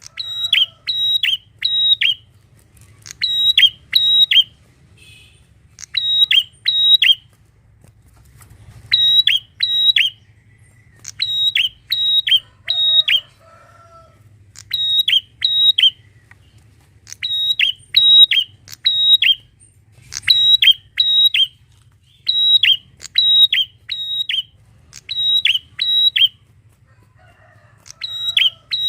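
Prenjak, a prinia, singing loudly in short phrases of two to four sharp, dropping notes, repeated about every two seconds.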